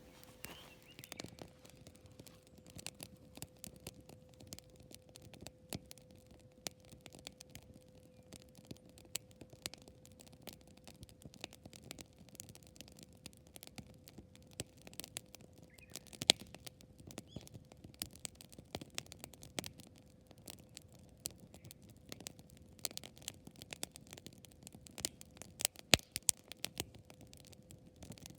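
Wood campfire crackling: a continuous run of irregular small snaps and ticks, with a few sharper pops, the loudest about 16 seconds in and a cluster near 26 seconds.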